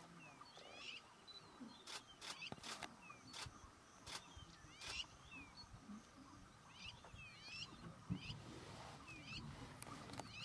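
Quiet savanna ambience: a bird sings a short warbled phrase again and again, about every two seconds. Several camera shutter clicks come in a quick run a couple of seconds in and again near the end.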